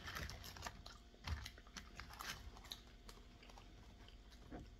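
Faint eating sounds at close range: chewing on chicken wings, with small clicks and paper rustles as fingers pick at wings in paper-lined takeout trays, thinning out near the end.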